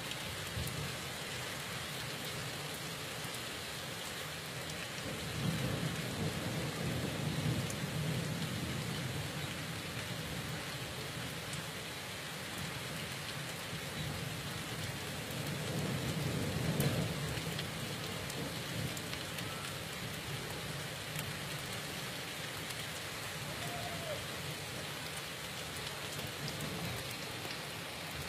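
Heavy rain falling steadily. Thunder rolls in as a long low rumble about a fifth of the way in, and again past the middle.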